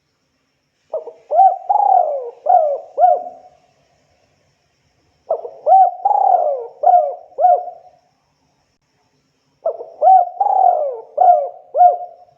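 Spotted dove (tekukur) cooing: three phrases of several rising-and-falling coos each, about four seconds apart.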